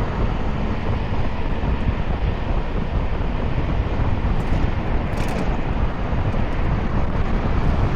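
Steady wind rush and road noise from riding a 96-volt electric motorcycle, with no engine note.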